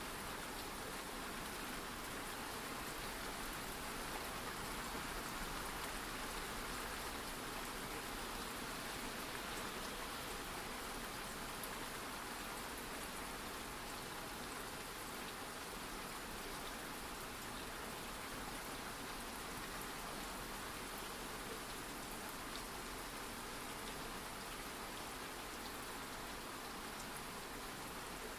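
Steady ambient rain recording: an even hiss of rainfall with faint scattered drop ticks.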